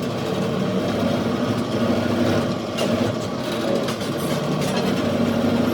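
Heavy machinery running steadily in a steel fabrication shop: a constant mechanical hum with a few faint clicks about halfway through.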